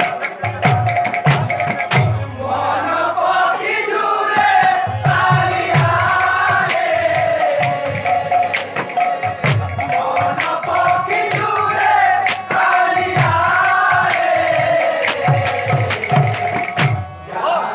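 Kirtan music: a group of voices singing a devotional song to a quick beat of ringing brass hand cymbals and low drum strokes. The music breaks off briefly near the end.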